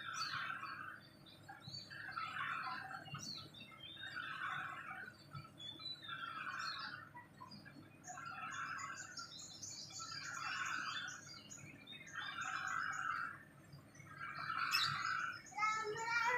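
A black-and-white bird calling: a short call repeated about every two seconds, with higher, quicker chirps over it.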